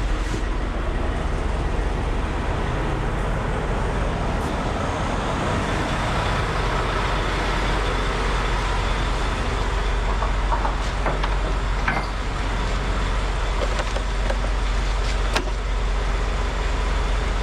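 Semi-truck on the move: a steady engine and road rumble, with a few faint clicks.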